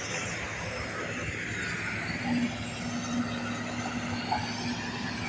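Excavator running, a steady mechanical noise with a low steady tone that comes in about two seconds in and fades out near the end.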